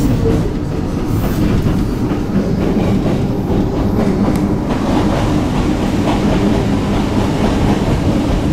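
Hakone Tozan Railway electric train running through a tunnel, heard from inside the car: a steady rumble of wheels on rail with a low hum underneath.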